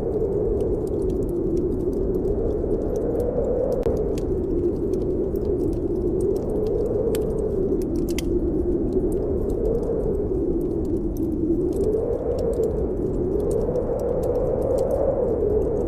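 Snowstorm wind howling, its pitch slowly rising and falling every few seconds, with a fireplace fire crackling in sharp, scattered pops.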